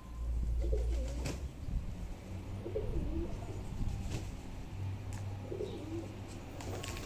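Domestic pigeons cooing: three short coo phrases, roughly two and a half seconds apart, with a few light clicks in between.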